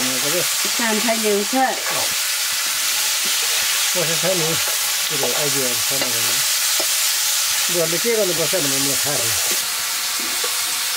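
Chopped onions sizzling as they fry in oil in an iron pan, stirred with a metal spatula. The sizzle runs steadily and eases slightly near the end.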